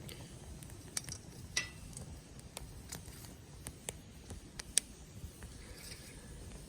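Burning firewood crackling in a campfire: irregular sharp pops and snaps, about a dozen, with a couple of louder ones, over a low steady rumble.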